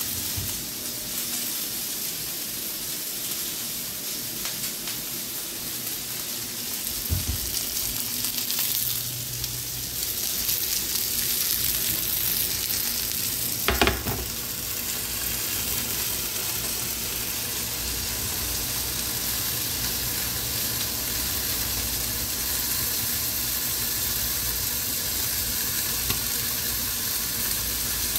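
Chicken pieces sizzling on a ridged grill pan. A small knock comes a quarter of the way in, and the loudest sound, a sharp clack, comes about halfway as the glass lid is set on.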